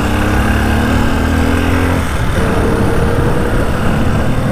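Motorcycle engine pulling under acceleration, its note slowly rising for about two seconds, breaking off and then running on at a steady pitch, over a loud low rumble.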